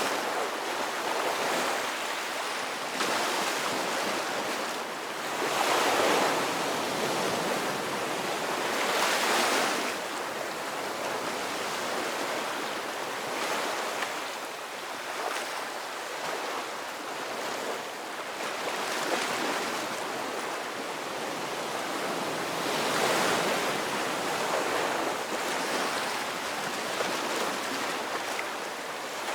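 Ocean waves breaking and washing up continuously, the surf swelling and easing every few seconds.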